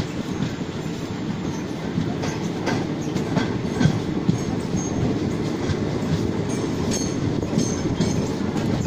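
Passenger train running along the track, heard from a coach window: a steady rumble of wheels on rails with scattered rail clicks and a few short high squeaks in the second half.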